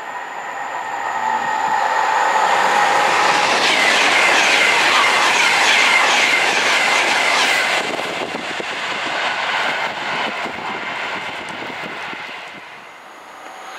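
Class 390 Pendolino electric train passing through at speed: a rush of air and wheels clattering over the rails, building over the first few seconds to a loud peak, cutting off sharply about eight seconds in as the last coach goes by, then fading away.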